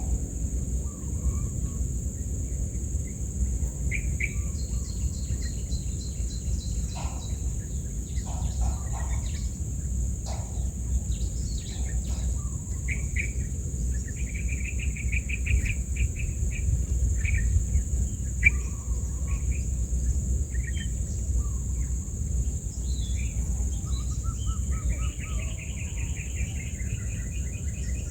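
Birds chirping and trilling off and on, with several short rapid trills, over a steady high insect drone and a constant low rumble.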